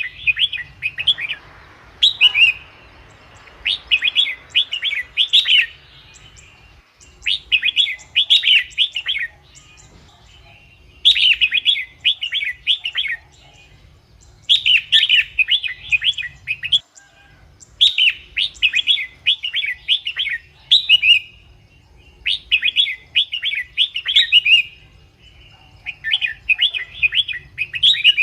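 Red-whiskered bulbul singing: short, bright, warbled phrases of quick notes, each lasting a second or two and repeated every three to four seconds, over a faint low hum.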